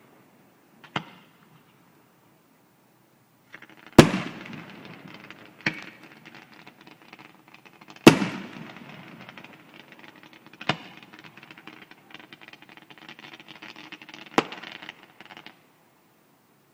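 Fireworks going off: about six sharp bangs a few seconds apart, the two loudest each trailing off in a fading echo and crackle.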